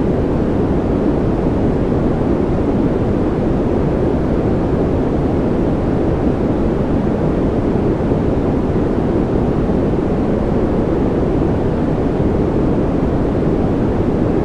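Continuous white-noise sleep sound: an even, deep rushing hiss with most of its weight in the low end and no changes, breaks or rhythm.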